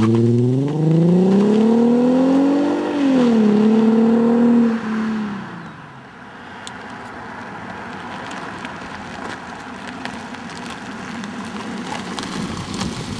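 Mercedes-Benz W203 C-Class engine heard through a Meisterschaft GT muffler: it revs up over about three seconds, holds briefly, then drops back around five to six seconds in, leaving a quieter steady running sound.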